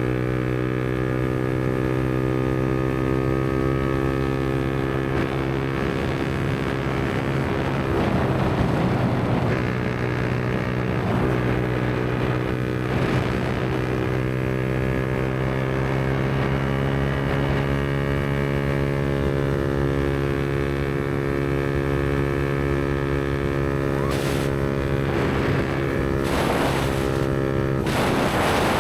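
Yamaha MT-125's single-cylinder four-stroke engine, with a Black Widow aftermarket exhaust, running at a steady cruising pace with an almost constant engine note. A few short swells of rushing noise come near the end.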